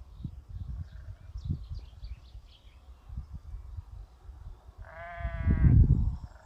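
Livestock bleating once about five seconds in: a wavering call under a second long. Under it runs a low, uneven rumble that swells with the call, and faint high chirps come earlier.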